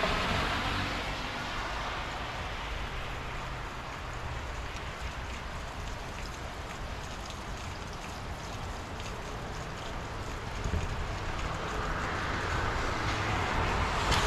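Rain falling during a thunderstorm: a steady hiss over a low rumble, easing off in the first few seconds and swelling louder again near the end.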